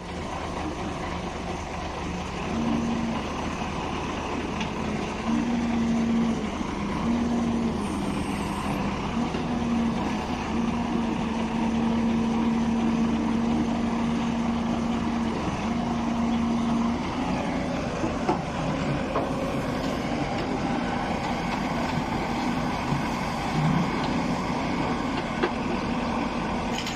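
Heavy diesel machinery running steadily, with a low steady hum that comes and goes from a few seconds in.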